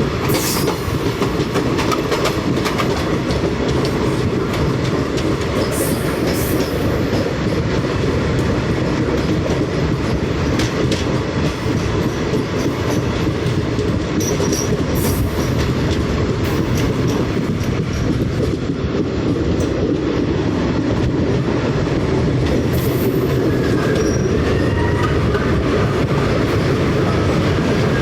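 Train running steadily along the track: a continuous loud rumble with scattered clicks of the wheels over the rails. A few faint high squeals come near the end.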